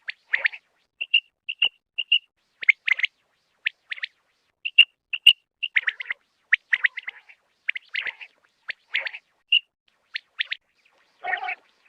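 Common quail calling: a quick, irregular series of short chirps and single clear, high notes, with a rougher, lower call near the end.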